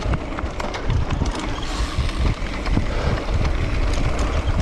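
Wind buffeting the microphone during a fast mountain-bike descent, with the bike clicking and rattling over rough trail throughout.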